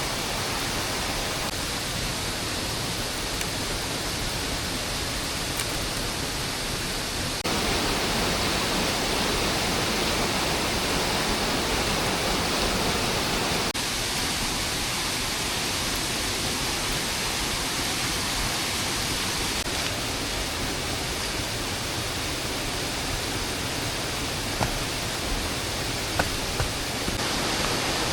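Steady hiss of heavy rain falling, its level jumping abruptly a couple of times, with a few faint ticks near the end.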